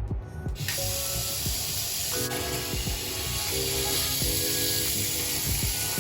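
Steady hiss of running or spraying water that starts abruptly about half a second in and cuts off abruptly at the end, over background music.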